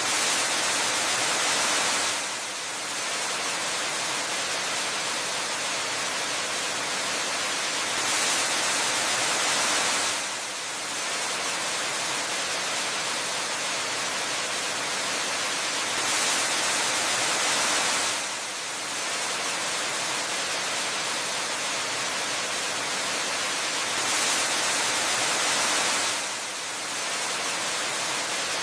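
Waterfall ambience: a steady hiss of rushing, falling water, thin in the low end, that eases off briefly and swells back on an even cycle about every eight seconds.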